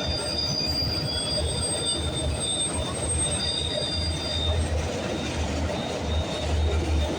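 Freight train cars rolling past at speed: a steady rumble of wheels on rail with uneven low throbbing, and thin high wheel squeals over the first half.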